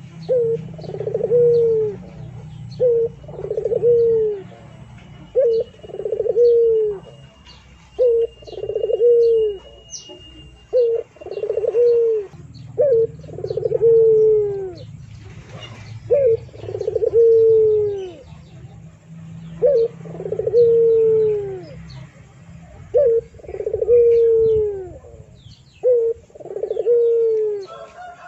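A bird calling over and over in a low voice, each call a short note followed by a longer falling note, about once every two to three seconds. Faint chirps of other small birds sound higher up.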